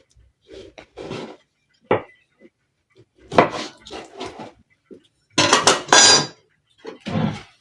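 Metal kitchenware and utensils clattering and scraping in irregular bursts, with a sharp clink just before two seconds in and the loudest clatter about two-thirds of the way through.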